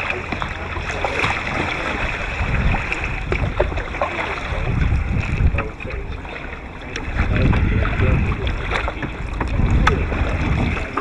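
Wind buffeting the microphone of a kayak-mounted camera in repeated gusts, over a steady wash of water around a kayak, with a few light knocks.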